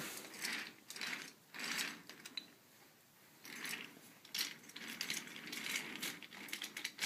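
Toy train being run along a toy track, rattling and clicking in two stretches with a short pause a couple of seconds in.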